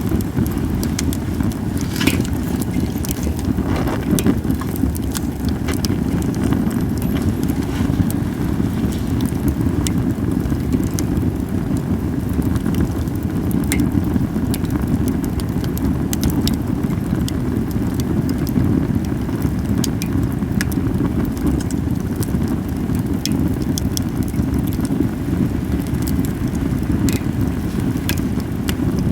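Cedar wood campfire crackling, with sharp pops every second or two over a steady low rumble.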